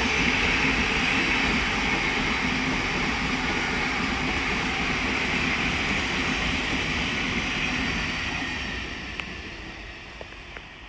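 Thameslink Class 700 electric multiple unit passing the lineside: a steady rush and rumble of wheels on rail, fading away over the last few seconds as the train recedes.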